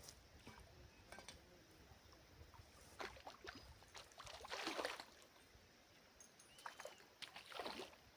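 A few brief water splashes and sloshes against a near-silent riverbank, the loudest about halfway through.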